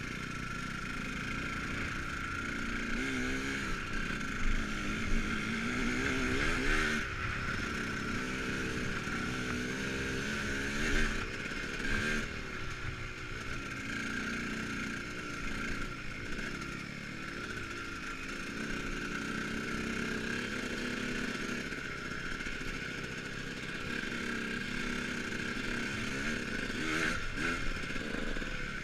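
KTM Freeride dirt bike being ridden off-road, its motor pitch rising and falling again and again with the throttle, with a few sharp knocks and clatter from the bike over rough ground.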